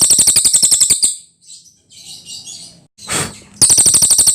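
Cililin songbird singing a loud, high, very fast trill of rapidly repeated notes that stops about a second in. Faint twittering follows, then the same rapid trill starts again near the end.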